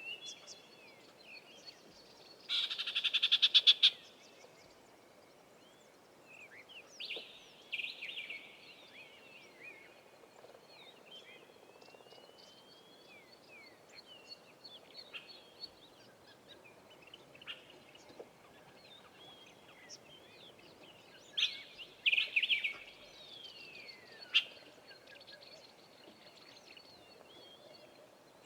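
A mix of wild birds calling in bush. The loudest call is a harsh, rapid rattling trill of about a second and a half, heard about three seconds in and again near the end, with short chirps and falling whistles scattered between.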